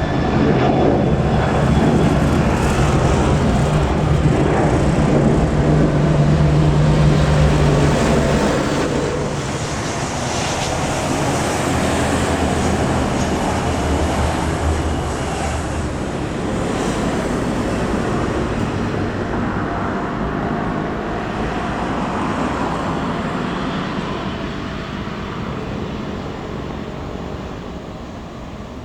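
Jet airliner passing close by with a loud engine roar, loudest for the first eight seconds or so, then slowly fading as it moves away.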